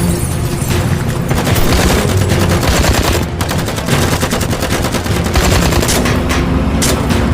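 Heavy automatic gunfire, many rapid shots in long bursts from several weapons, with a brief lull a little after three seconds in.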